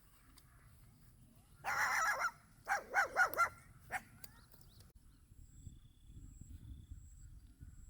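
An animal calling: one drawn-out call about two seconds in, then four short calls in quick succession.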